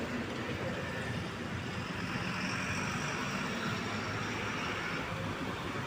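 Steady vehicle engine and road noise, a continuous low rumble with a faint high whine through the middle.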